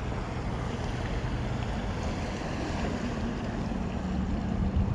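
Steady wind rush on the microphone over water noise around a kayak, with a faint low hum underneath that shifts a little higher in pitch about two-thirds of the way through.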